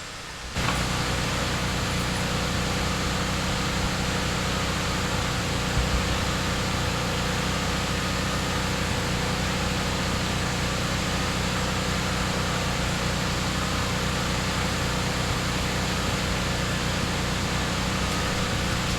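A machine or engine running steadily: an even drone with a constant low hum under a hiss, starting and stopping abruptly.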